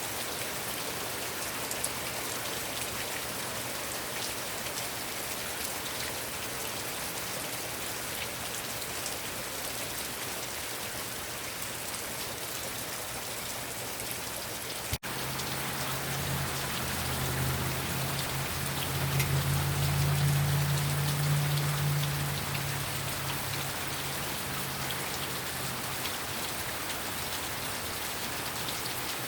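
Heavy rain falling steadily on surfaces. About halfway the sound breaks off for an instant, and after it a low hum swells for several seconds and fades again under the rain.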